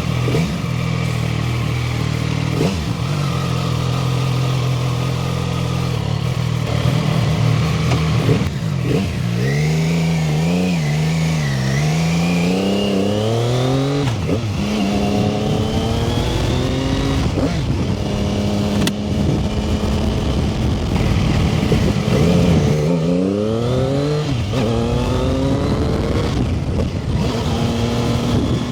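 CFMoto 675SS sport bike's 675cc inline-three engine under way: it holds a steady note for the first several seconds. About nine seconds in, it revs up through the gears, pitch rising and dropping back at each shift, and does the same again a little past twenty seconds.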